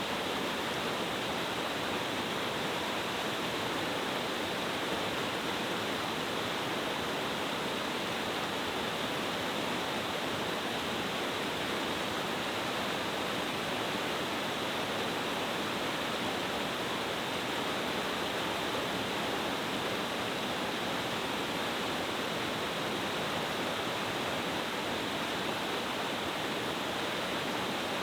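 Steady rushing roar of a powerful multi-tiered cascade waterfall, water pouring over rocks in a mountain gorge stream, constant with no change.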